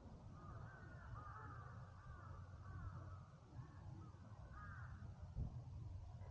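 Birds calling in woodland: a run of arching calls over a low, steady background rumble, with one brief low thump about five seconds in.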